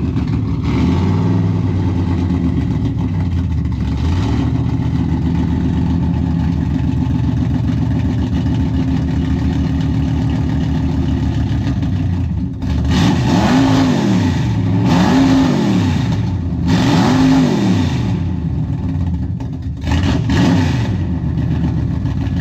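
A car engine with a very loud exhaust, idling heavily with a few light blips of the throttle. In the second half it is revved hard four times, each rev rising and falling in pitch, being shown off for loudness.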